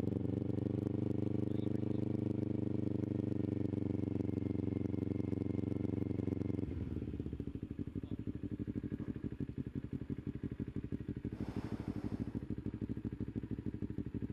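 Kawasaki Ninja 250 parallel-twin engine running at a steady note, then about seven seconds in dropping abruptly to a lower, pulsing idle. A brief hiss of noise passes near the end.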